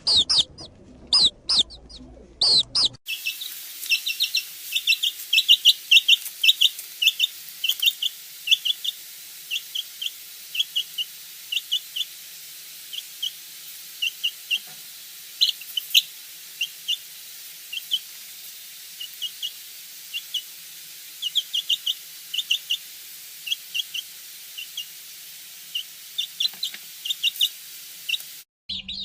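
Birds chirping in short, quick calls. For the first three seconds the calls are loud and sparse. After that they come in rapid runs over a steady hiss.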